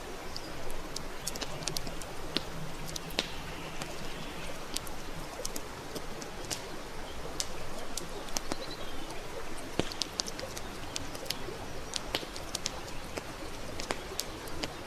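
Wood campfire crackling: irregular sharp pops and snaps, several a second, over the steady hiss of the burning wood. A faint low hooting tone comes in about a second and a half in and lasts about two seconds.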